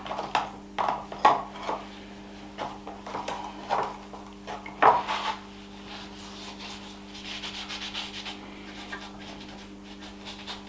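Oak being wiped with a mix of boiled linseed oil and mineral spirit: a run of short, uneven rubbing strokes that soften into gentler continuous rubbing about halfway through.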